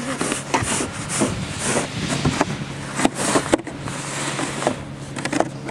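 Snow shovels scraping and chopping at packed snow on a driveway in repeated short strokes, over a steady low hum.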